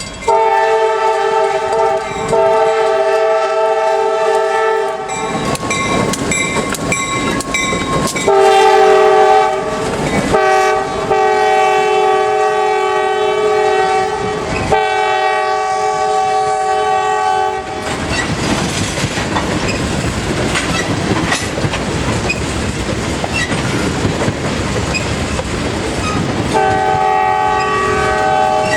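Freight locomotive's multi-chime air horn blowing a series of blasts: a long one, a shorter one, another long one and a shorter one. From about halfway, the steady rumble and clatter of the train rolling past takes over, and the horn sounds again near the end.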